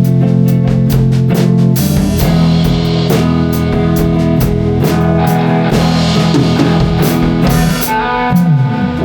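Instrumental intro of a rock song: guitar over a steady drum-kit beat, with the full band coming in about two seconds in.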